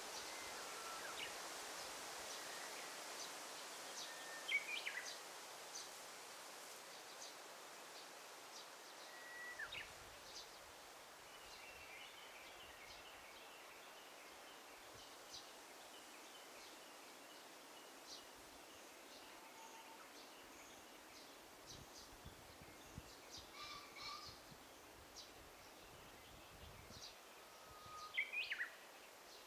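Daytime forest ambience: several birds give short chirps and whistled notes on and off over a faint steady hiss. The loudest are quick calls that sweep sharply downward, about four seconds in and again near the end.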